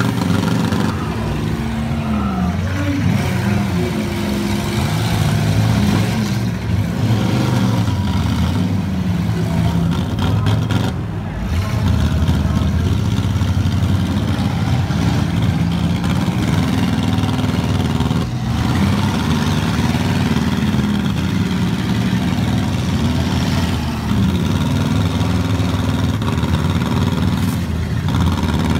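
Several front-wheel-drive demolition derby car engines revving together, their pitch rising and falling as the cars push and spin on a muddy track.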